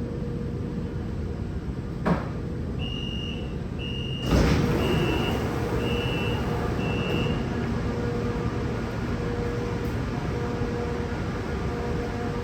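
Metro train door-closing warning: five short high beeps about a second apart, with a loud thump as the sliding doors shut partway through the beeps, over the steady hum of the stopped electric train.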